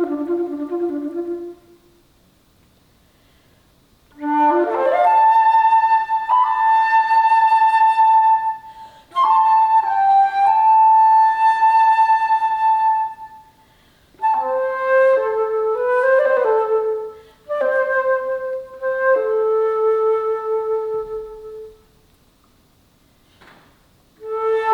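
Solo alto flute playing: phrases of rising and held notes broken by short pauses for breath, with a run of falling notes starting near the end.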